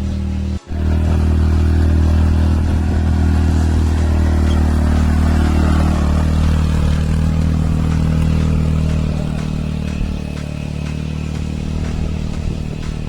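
Hero XPulse 200 motorcycle's single-cylinder engine running steadily under way on an off-road track, its note shifting slightly as the throttle changes. The sound cuts out for an instant about half a second in.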